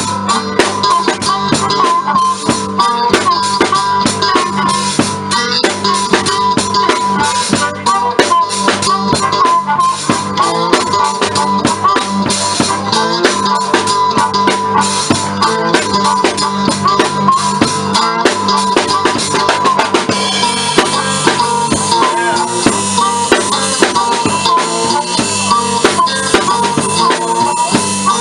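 Live blues band playing an instrumental passage, a drum kit keeping a steady beat under a wavering lead melody line. The sound turns brighter in the highs about two-thirds of the way through.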